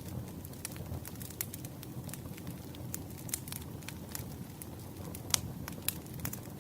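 Campfire burning: irregular sharp crackles and pops of burning wood over a low steady rumble, with one louder pop a little past five seconds in.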